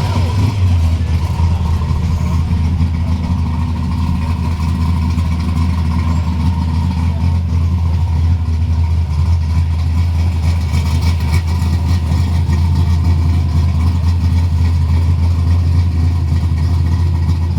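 Chevrolet 327 small-block V8 idling steadily, settling into an even idle within the first second after a brief rev.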